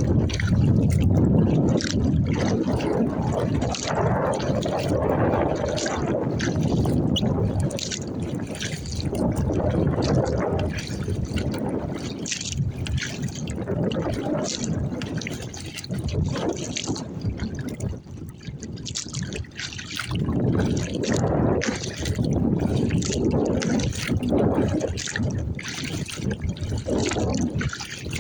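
Water splashing and trickling around a Pelican Argo 100XR kayak on light chop, with many short splashes. Low wind rumble on the microphone comes in gusts, strongest in the first several seconds and again about two-thirds of the way through.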